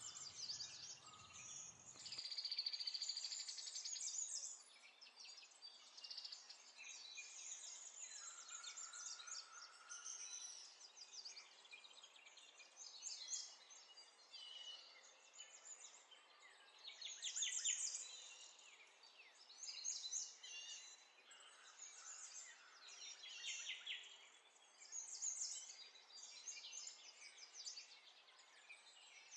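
Faint birdsong: high chirps and fast trills in short bursts every second or two.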